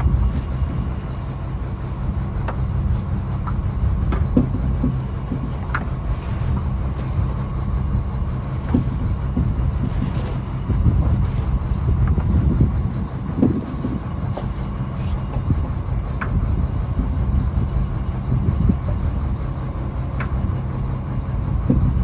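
A fishing trawler's diesel engine running with a steady low drone, with scattered light knocks and clicks over it.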